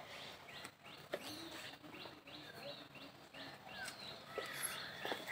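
Small bird chirping, a regular run of short, high chirps about two a second.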